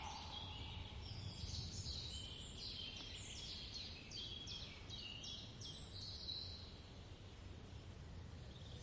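Faint forest ambience: birds chirping in a quick run of short high notes over a low steady rumble.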